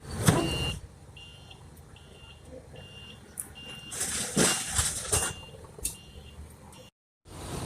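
A vehicle's reversing alarm beeping at a steady pitch, a little more than one beep a second, over a low engine rumble. Loud bursts of clattering noise come near the start and again around the middle.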